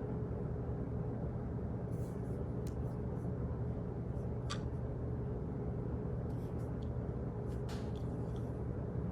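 Office room ambience: a steady low hum and rumble, like ventilation or machinery, with a few faint, irregular small clicks and taps scattered through it.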